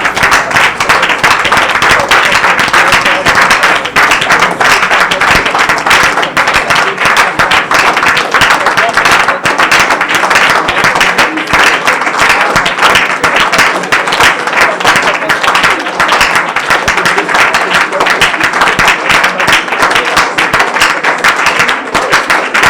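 A congregation praying aloud all at once, many voices overlapping into a loud, steady babble, with hand-clapping mixed in.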